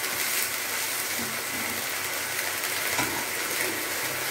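Thinly sliced lamb and garlic sizzling steadily in a frying pan on a gas hob, stirred with a wooden spatula.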